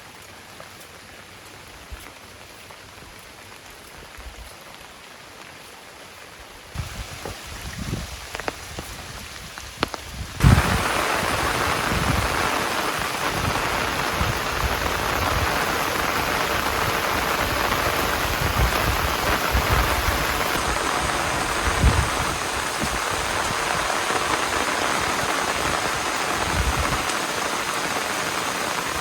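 Heavy rain falling. It is faint at first, then jumps abruptly to a loud, steady downpour about ten seconds in, with scattered low thuds.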